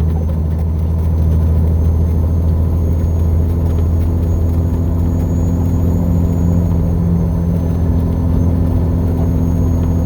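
Heavy truck's diesel engine droning steadily inside the cab as it climbs a steep grade in third gear at about 1,700 RPM.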